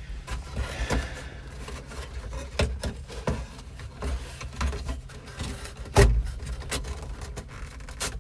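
Plastic HVAC duct and vent pieces being pushed, scraped and knocked into place under a truck dash: irregular clicks, knocks and rubbing, with one louder knock about six seconds in.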